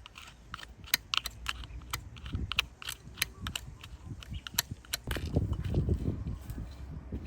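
Light irregular clicks and taps of hands and tools handling a diecast model car during cleaning, with a low rubbing rumble from about five seconds in.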